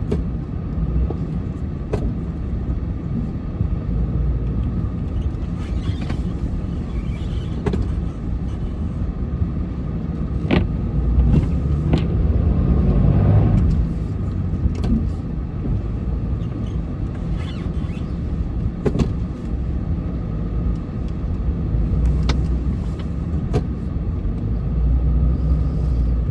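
Plow truck running at low speed with a steady low rumble that swells for a few seconds midway, with scattered short knocks and clunks.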